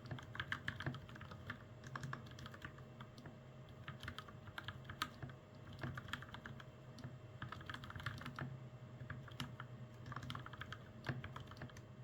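Typing on a custom mechanical keyboard with Gateron Milky Yellow Pro linear switches and double-shot PBT keycaps: quick runs of key clacks in bursts, with brief pauses between them.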